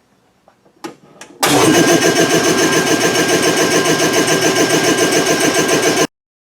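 A few sharp clicks, then a belt-driven Galion air compressor powered by a 3 HP Dayton electric motor starts up and runs with a fast, even pulsing as it begins filling its tank; the sound cuts off abruptly near the end.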